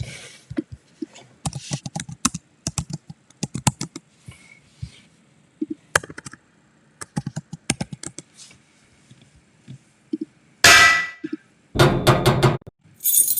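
Rapid clattering of short clicks and metallic clanks, then several loud, longer noisy crashes near the end.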